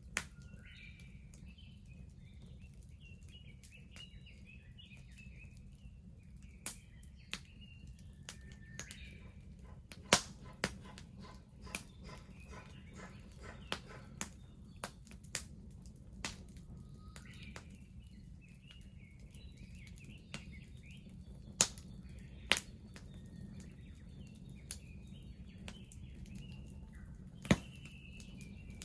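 Wood bonfire crackling, with scattered sharp pops over a low steady rumble. Birds chirp and sing through the first third and again in the last third.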